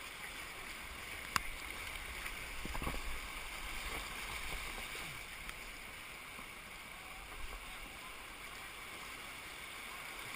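Steady rush of creek water heard from a small boat on moving current, with a single sharp knock about a second and a half in.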